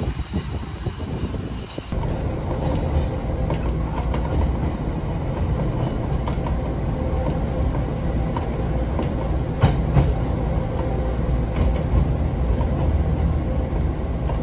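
Taiwan Railway Pingxi Line diesel railcar train running on the track. In the first two seconds a high wheel squeal fades out; then comes a steady low rumble of the moving train, broken by scattered clicks of wheels over rail joints, two of them louder near the middle.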